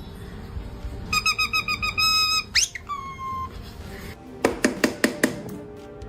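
Parrot mimicking electronic beeps: a quick run of about eight short beeps, then a rising whistle and a short falling whistle. A few sharp clicks follow about two thirds of the way in.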